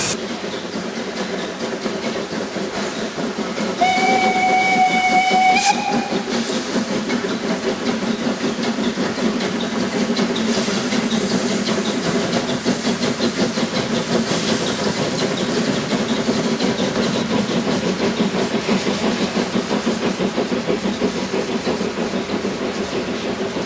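Harz narrow-gauge steam train running, with its steam whistle blown once for about two seconds, about four seconds in; the whistle's pitch lifts slightly just before it stops.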